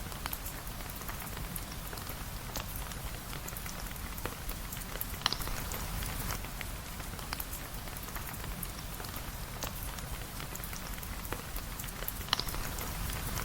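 Steady rain falling, with scattered light clicks and sharp pops, the loudest about five and twelve seconds in.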